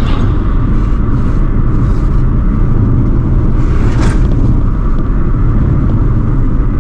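Car driving along the road: a steady low rumble of engine and road noise, with a brief hiss about four seconds in.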